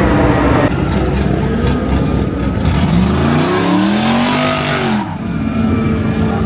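Car engine revving hard over a loud, steady rumble of engine and exhaust noise; about three seconds in the revs climb and fall back by about five seconds.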